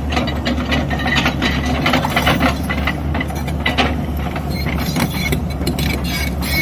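JCB backhoe loader's diesel engine running steadily, with frequent short metallic clanks and rattles over it.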